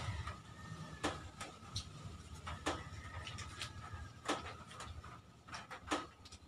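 Mouth sounds of people eating with their hands: chewing with several sharp lip smacks, over a faint steady hum.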